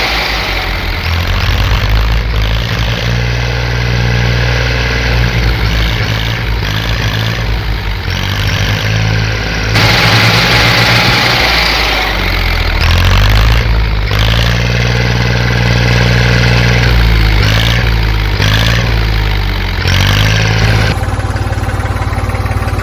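Mini tractor engine running under load, its pitch rising and falling unevenly as it revs, with a steady change in sound near the end.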